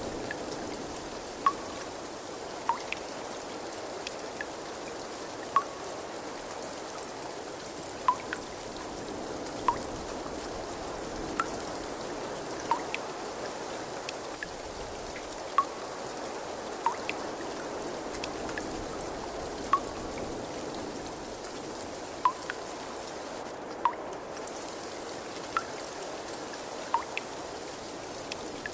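Steady trickling water with single drops plinking into water at a fairly even pace, about one every second and a half.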